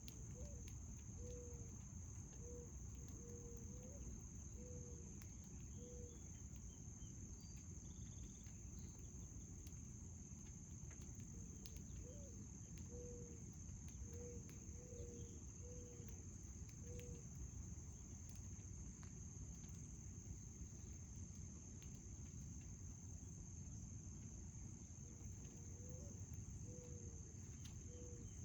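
Faint, steady high-pitched trilling of crickets, with three runs of short low calls repeated about once a second and a low rumble underneath.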